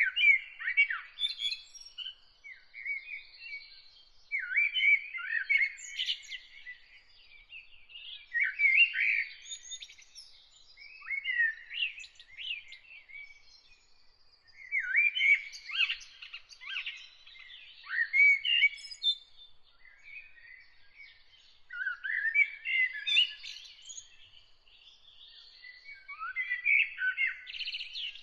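A songbird singing in repeated twittering phrases of a second or two each, with short pauses between them, over a faint thin high-pitched tone held throughout.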